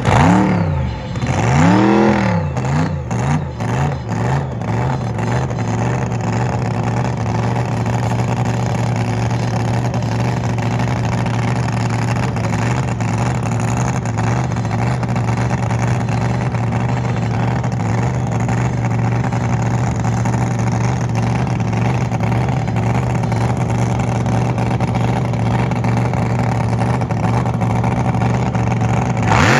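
Drag boat engine revved in several quick blips, then held at a steady high idle for a long stretch, with a rise in revs right at the end.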